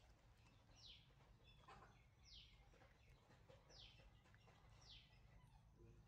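Faint bird calls: a short, high chirp falling quickly in pitch, repeated four times about every one and a half seconds over a quiet background.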